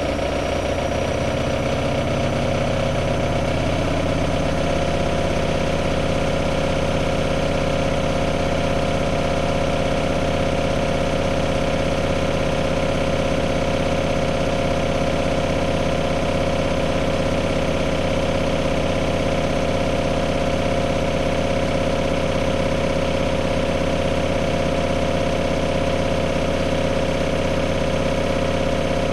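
AEG Lavamat Turbo washer-dryer running with a steady mechanical hum and whine. A faint high whine rises and levels off in the first few seconds.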